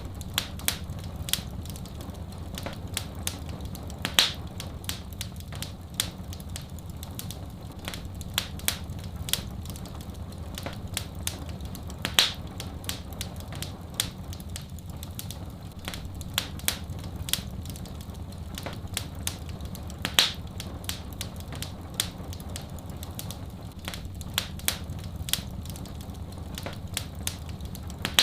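Wood fire in a fireplace crackling, with irregular sharp pops, a few much louder ones, over a steady low rumble.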